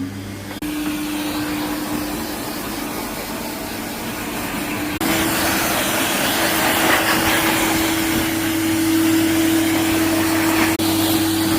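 Electric pet blow dryer running steadily, a motor whine over a rush of air, as it dries a wet Labrador after a wash. It gets louder about five seconds in.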